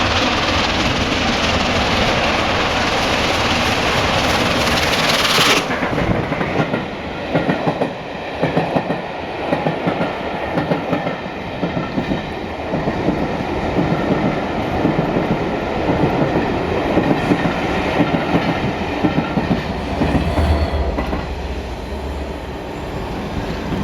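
LNER Peppercorn A1 Pacific steam locomotive 60163 Tornado with its train passing at speed. A loud rushing hiss for the first five seconds or so cuts off abruptly, then the coaches' wheels clatter over the rail joints.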